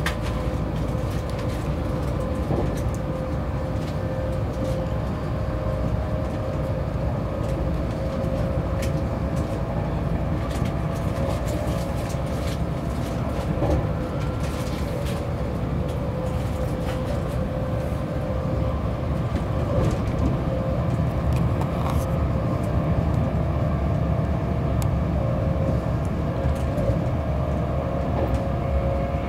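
Cabin noise inside a Virgin Trains Class 390 Pendolino electric train on the move: a steady low rumble of wheels on rail, with a steady hum and scattered light clicks.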